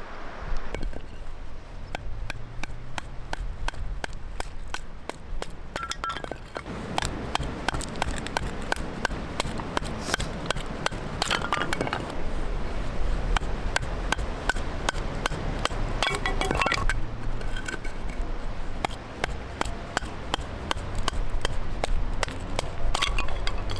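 Wood fire crackling in a steel fire pit: many irregular sharp pops and cracks, with a few brief metallic pings now and then.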